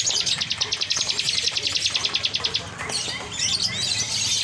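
Lovebird chattering in a fast, even trill of high chirps, about thirteen a second, that stops about two and a half seconds in, followed by a few scattered single chirps.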